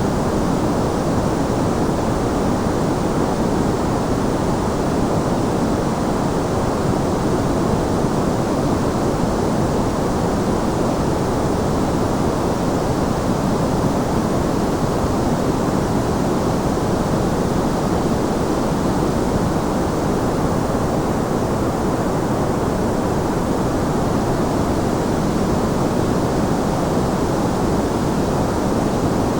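Steady white noise: an even, unchanging hiss with no rhythm or breaks, its weight in the low and middle range and fading toward the top.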